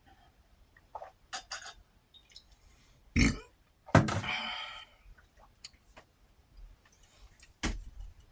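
A man burping loudly during a meal: a short burp about three seconds in, then a longer drawn-out burp just after, with scattered short clicks and smacks of eating around them.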